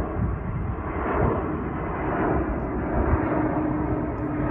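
Airplane flying low overhead: a steady rushing rumble, with a faint hum joining about two seconds in.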